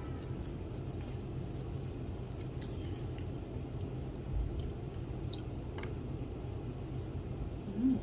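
Room tone: a steady low hum with a few faint scattered clicks, a soft thump about four and a half seconds in, and a short low tone near the end.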